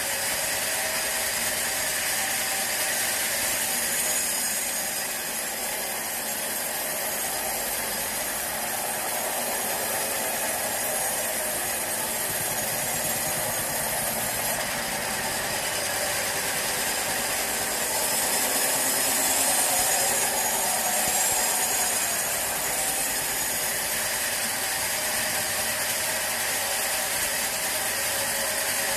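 Sawmill saw running steadily, a continuous mechanical hiss with faint steady whining tones in it, a little louder from about 18 to 22 seconds in.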